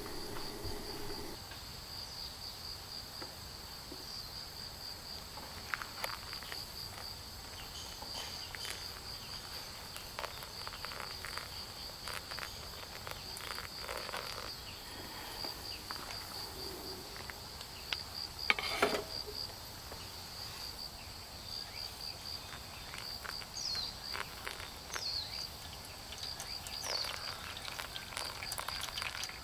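Insects trilling in an even, steady high pulse, with scattered faint clicks and one louder knock about two thirds of the way in.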